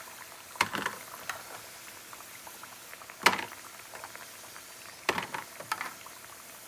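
Plantain slices shallow-frying in hot oil, a steady bubbling sizzle; this is the first fry of tostones, before the slices are smashed. Metal tongs clack sharply several times against the pan and pieces as the slices are turned and lifted, with the loudest clack about three seconds in.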